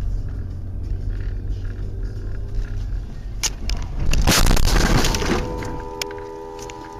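A steady low rumble, then a loud noisy crash-like burst about four seconds in that lasts over a second, giving way to a held musical chord.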